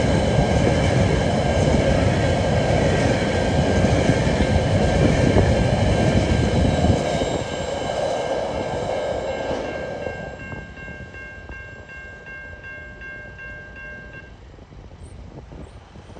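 A TasRail freight train's wagons rumbling and clattering over the Wellington Street level crossing, the noise dropping away about seven seconds in as the train passes. Over it, the level crossing alarm rings with steady high tones, turning into even pulses and stopping about fourteen seconds in.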